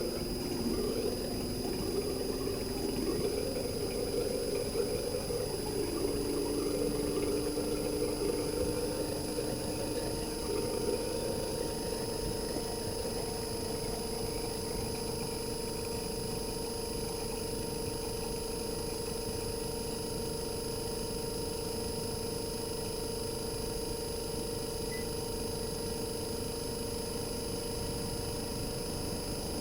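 RECHI 43W26SH single-rotary inverter compressor from a Sharp AU-J25XY air conditioner outdoor unit running: a steady mechanical hum with a thin high whine. Its pitch wavers for about the first ten seconds, then settles to a steady tone.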